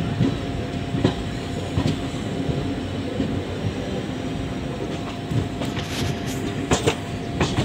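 Passenger train coach running along the track: a steady rumble with clicks and knocks as the wheels cross rail joints, several sharper knocks close together near the end.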